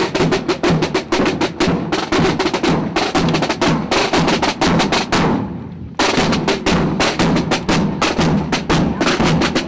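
Rapid, steady percussive strikes in a drum-roll-like stream. They fade out about five seconds in and start again abruptly a second later.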